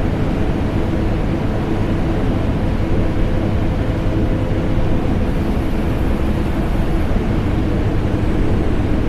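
Vacuum cleaner motor and air conditioner running together as one steady, deep drone, with a faint hum of a few held tones in it.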